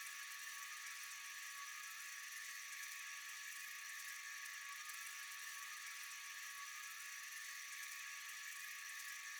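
Steady, high-pitched night insect chorus, an even unbroken drone with no change in level.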